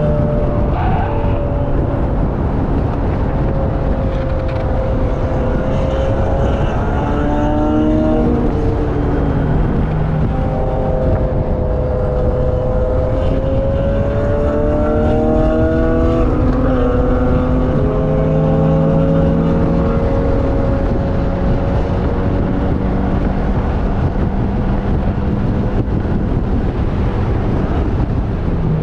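Vehicle engine at track speed, its pitch climbing and dropping again several times as it is driven hard through corners and gear changes, over constant wind and road rush.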